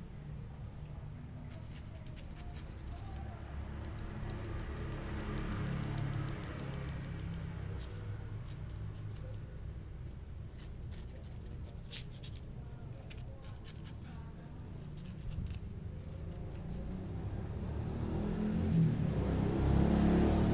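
Irregular light clicks, taps and scratches from a thin stick being flicked about during cat play, over a steady low rumble that grows louder in the last few seconds.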